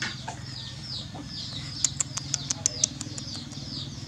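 A small bird calling over and over with short falling chirps, over a steady low hum. A quick run of about seven sharp clicks comes about two seconds in.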